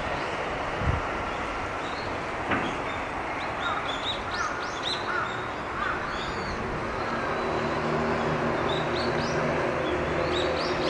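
Small birds calling in short, high, repeated chirps over a steady rushing background, with a low engine hum from a passing vehicle growing in from about the middle. Two sharp clicks sound in the first few seconds.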